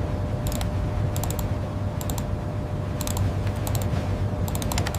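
Typing on a computer keyboard: short runs of light key clicks, a few at a time, about once a second over a steady low hum.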